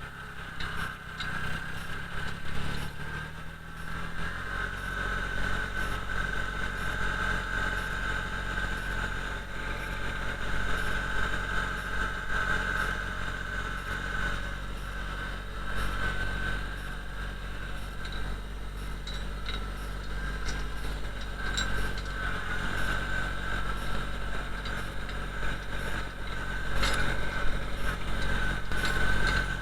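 Kubota BX25D compact tractor's three-cylinder diesel engine running steadily under work, with a few short knocks, the loudest near the end.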